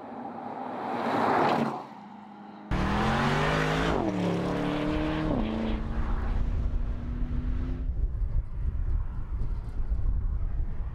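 Porsche Panamera Turbo's twin-turbo V8 rising as the car comes up close, then cutting off abruptly. About three seconds in the engine note returns suddenly, its pitch falling as the car runs away, then holds one steady tone for a few seconds before giving way to steady road and tyre noise.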